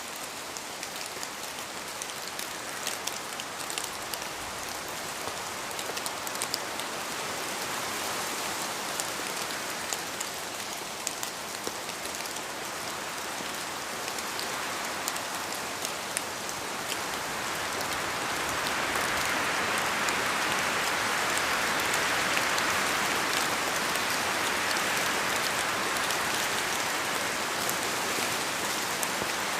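Steady rain falling in a forest, an even hiss dotted with many sharp drop ticks. The rain swells louder about two-thirds of the way in, then eases slightly.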